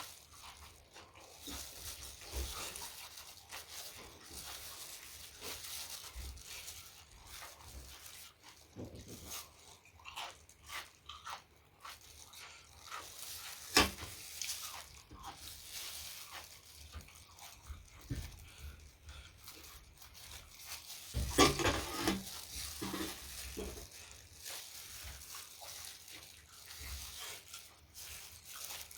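Close-up eating sounds: chewing with crunchy bites and small wet mouth clicks. There is a single sharp loud click about 14 seconds in and a louder burst of crunching a little after 21 seconds.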